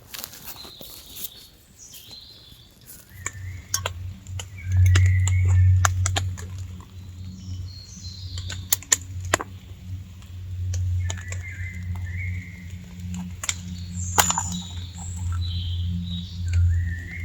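Birds chirping in short phrases, with scattered sharp clicks. From about three seconds in, a low steady hum sets in and is the loudest sound.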